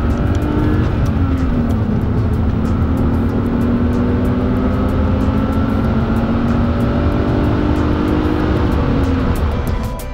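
BMW 320i E36's straight-six engine pulling hard under acceleration, heard from inside the cabin. The revs drop with a gear change about a second in, then climb steadily again before the sound fades out near the end.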